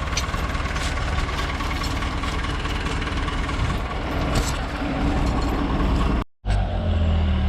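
Diesel engine of heavy farm machinery running steadily. Near the end the sound cuts out for an instant, then returns as a steadier, deeper engine note.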